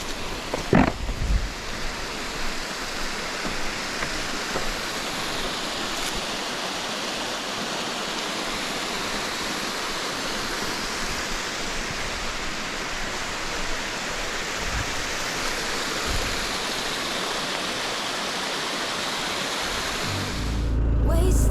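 Steady rushing of a mountain stream. Just before the end, a motorcycle engine comes in with a loud, low, steady running sound.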